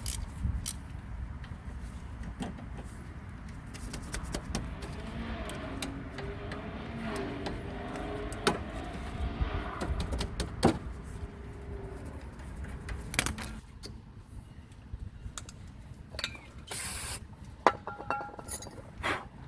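Scattered metallic clinks and knocks of tools and brake parts being handled during a rear brake job, over a low rumble, with a short hiss about 17 seconds in.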